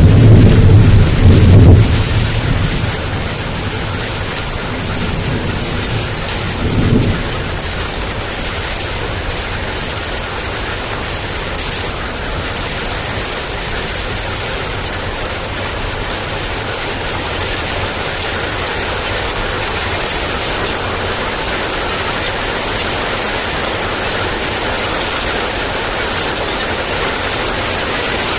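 Heavy rain pouring steadily. A loud, low rumble of thunder fades out about two seconds in, and a shorter, fainter rumble comes around seven seconds.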